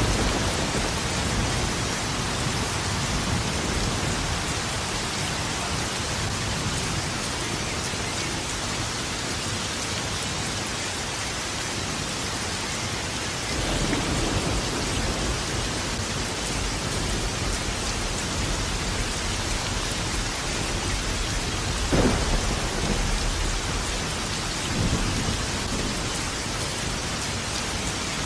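Steady heavy rain with thunder rumbling several times; a sharp crack of thunder about 22 seconds in is the loudest moment.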